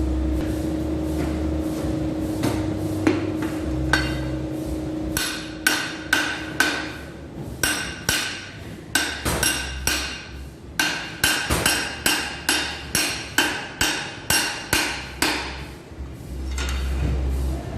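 Hammer striking metal machine parts in a run of about twenty ringing blows, roughly two a second, typical of knocking a shaft or its fittings loose during disassembly. A steady hum fills the first few seconds.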